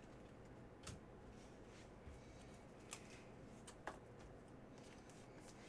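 Near silence with a few faint ticks and rustles of trading cards being handled and flipped through.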